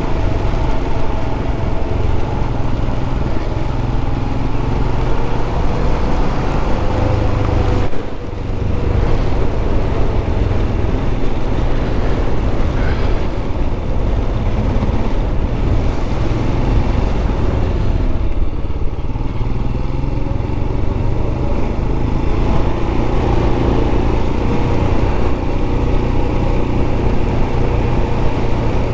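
Royal Enfield Scram 411 single-cylinder motorcycle engine running steadily at road speed, with a heavy low wind rumble. The engine sound drops briefly about eight seconds in.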